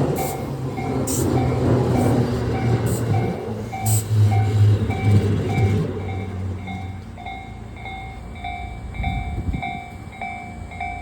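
Tobu 8000 series electric train running over a level crossing with a low rumble and a clack about once a second, dying away about six seconds in. The crossing's electronic warning bell dings steadily throughout, about one and a half strikes a second.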